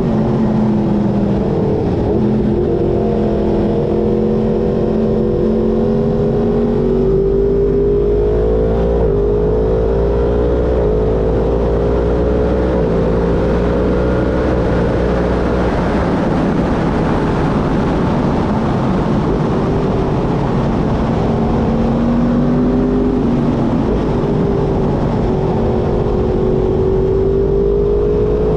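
Yamaha sport motorcycle's crossplane inline-four engine being ridden hard: its pitch climbs in steps through the gears, drops off around the middle, then climbs again near the end.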